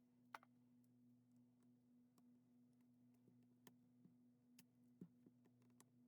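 Near silence: a faint steady hum with scattered faint small clicks, the sharpest about a third of a second in.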